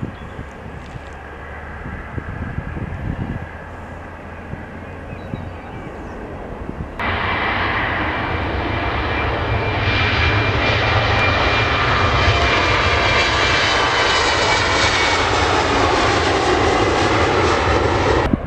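Airliner engines passing close by: a rumble that jumps much louder about seven seconds in, with a high whine and tones sliding down in pitch, then cuts off suddenly near the end.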